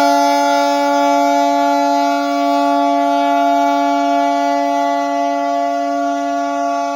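Train air horn held in one long, steady blast, several notes sounding together.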